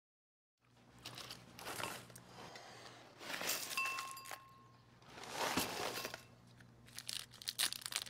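Quiet crinkling and rustling in four or so bursts over a faint, steady low hum.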